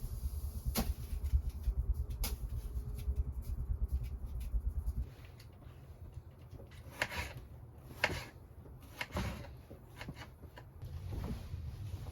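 A low rumble that stops about five seconds in, then a run of sharp knocks and clatters of objects being handled.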